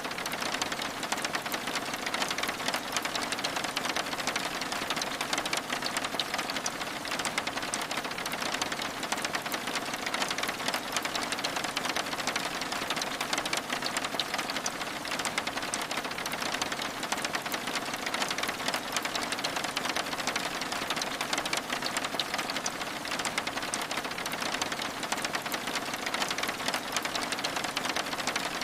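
Steady rain: a dense, even patter of countless fine drops that does not change.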